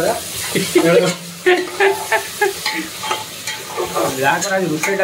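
Browned onions sizzling in hot oil in a pressure cooker pot while a metal spoon stirs them, with repeated scraping strokes against the pot.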